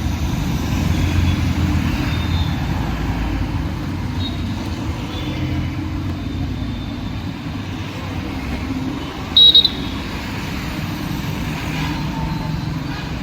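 Steady city road traffic, engines and tyres running past, with one short, loud, high-pitched toot about nine and a half seconds in.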